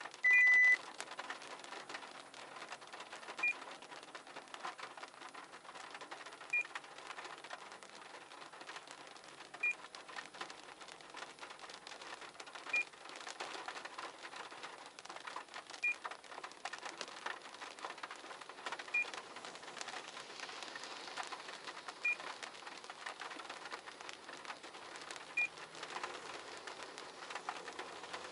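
Electronic beeps: one half-second beep just after the start, then short, slightly higher beeps repeating about every three seconds, over faint irregular clicking.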